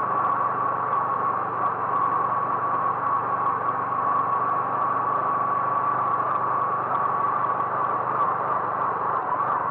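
A motor vehicle running steadily: a constant engine hum under an even band of travel noise, with no change in speed or pitch.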